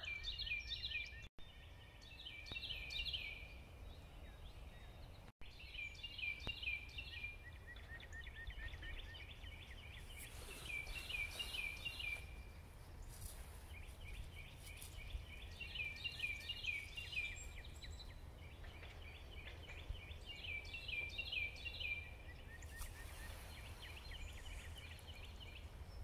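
A songbird singing a quick series of sweeping notes, the phrase repeated every couple of seconds, over a steady low rumble.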